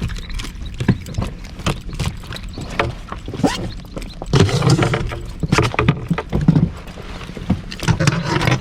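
Water slapping and knocking against a small inflatable boat, with irregular clatter and low thumps.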